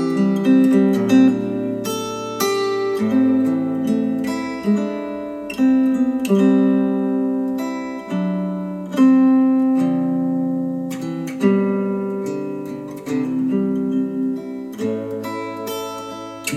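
Instrumental acoustic guitar music, plucked and strummed chords ringing and decaying, played back through Polk Audio Reserve R200 bookshelf speakers.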